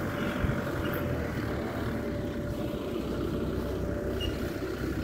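Steady low engine rumble with a faint held tone.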